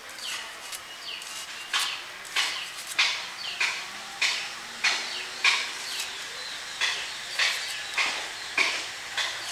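A bird calling over and over: short chirps, each falling in pitch, a little under two a second, louder from about two seconds in.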